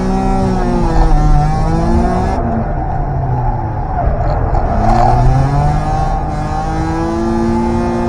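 FR-converted Daihatsu Mira's engine revving up and down while drifting, its pitch rising, falling and rising again several times. The owner says the engine has developed a slight tappet-like noise.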